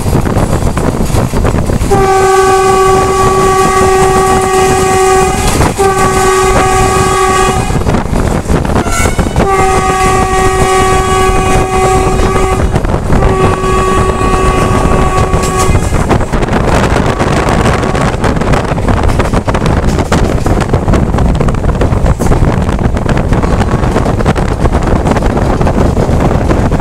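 Mumbai suburban local electric train running at speed, heard from on board as a steady rumble of wheels on rails. Over it, a train horn sounds four long blasts at one steady pitch, in two pairs, between about two and sixteen seconds in.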